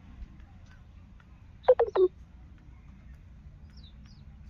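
A bird gives three short, loud, falling calls in quick succession, a little under halfway through.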